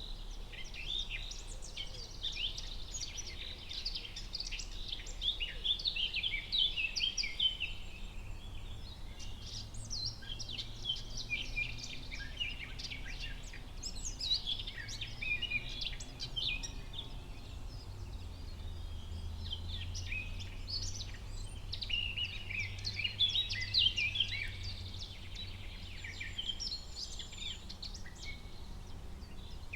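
Forest ambience: a chorus of several songbirds chirping in dense, overlapping bursts of short high calls.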